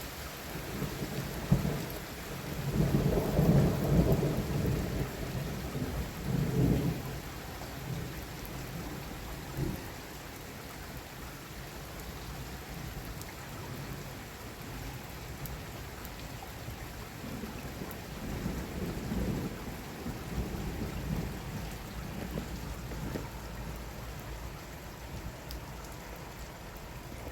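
Heavy rain falling steadily, with rolling thunder rumbling loudest from about two to seven seconds in and a weaker rumble near twenty seconds.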